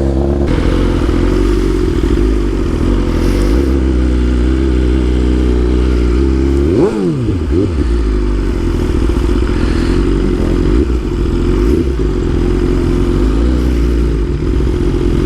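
BMW S1000RR inline-four engine running steadily at low revs. About seven seconds in, its pitch drops sharply and comes back up.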